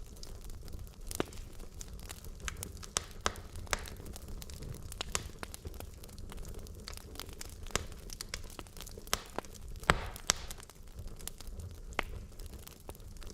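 Wood logs burning in a fireplace: irregular sharp crackles and pops over a low rumble of flame, with a louder pop about ten seconds in.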